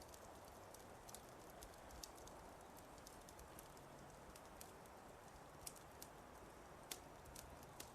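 Wood fire crackling faintly: irregular sharp pops and snaps over a steady low hiss.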